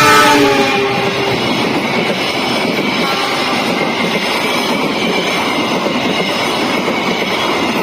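Passenger train running on the rails: a steady rumble and rail noise with faint high steady tones, loudest at the very start.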